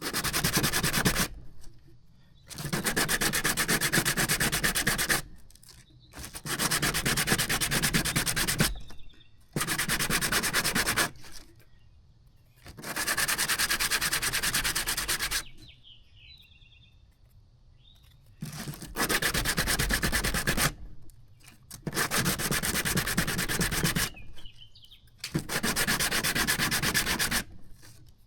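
A plastic tail-light panel edge being hand-sanded back and forth on 120-grit sandpaper laid flat on a table. It comes in about eight spells of steady scraping, each one to three seconds long, with short pauses between.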